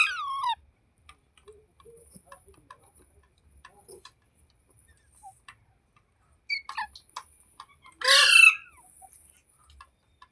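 Parrot giving loud harsh squawks that fall in pitch, one right at the start and another about eight seconds in, with a shorter call just before it and soft clicks and chirps in between.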